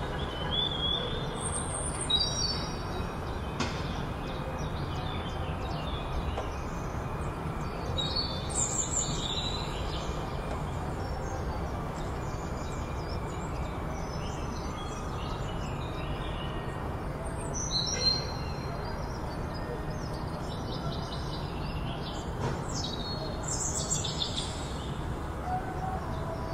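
Birds chirping in short, high calls every few seconds over a steady low rumble of outdoor background noise.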